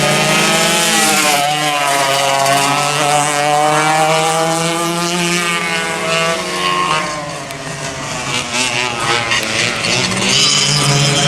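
Vintage racing kart engines running hard, their pitch rising and falling as the karts accelerate and slow through the corners. There is a brief drop in engine level a little past halfway, then they pick up again.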